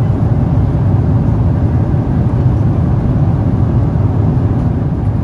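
Steady low roar of a Boeing 777-300ER cabin in flight: airflow and engine noise heard from an economy seat, even and unbroken.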